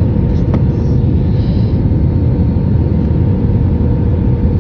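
Airliner cabin noise on approach: a steady loud rumble of the jet engines and airflow heard from inside the cabin, with a faint steady hum.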